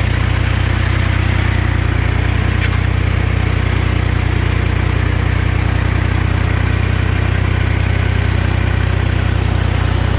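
An old farm tractor's engine running steadily at a constant speed.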